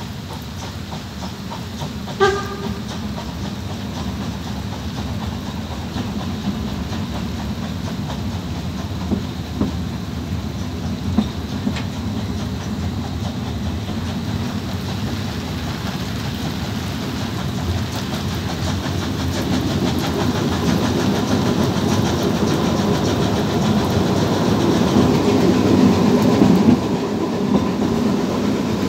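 Open carriages of a narrow-gauge train rolling along the track, wheels clicking over rail joints and the cars rattling, getting louder in the last third. There is a short high tone about two seconds in.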